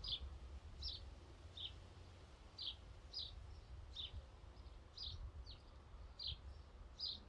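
A small bird chirping over and over, short high chirps coming roughly one or two a second. Underneath is a faint low rumble of wind.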